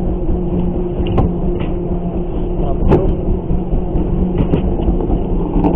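Boat engine running steadily under a dense rush of noise, with a few sharp clicks or knocks.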